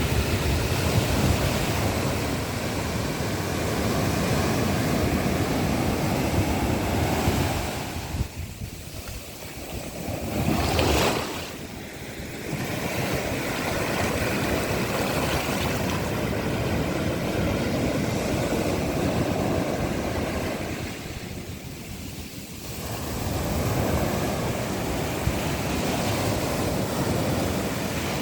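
Ocean surf breaking and washing up a sandy beach in a continuous rush of noise, easing off twice between sets of waves, with a brief sharp hiss near the middle.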